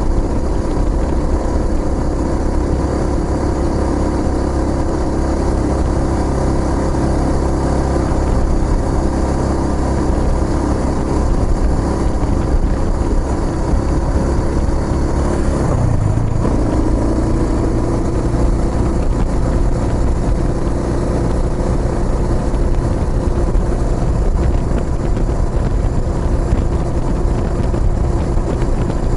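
Kawasaki Estrella's single-cylinder engine running through an aftermarket Yamato muffler while riding at a steady pace, with a low rumble under it. About halfway through the engine note breaks briefly and settles at a new pitch, as at a gear change.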